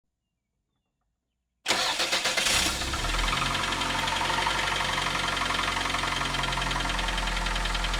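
Silence, then about a second and a half in a 1991 Toyota Camry engine cranks briefly, catches and settles into a steady idle with a rapid, even ticking running through it. It is the engine noise the owner cannot yet place as rod knock in the bottom end or valve noise in the top end.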